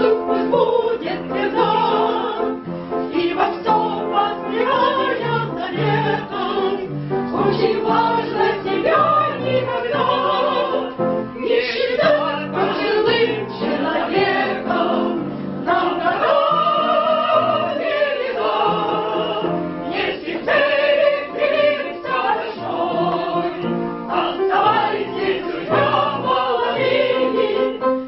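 A group of voices singing a song together, with musical accompaniment.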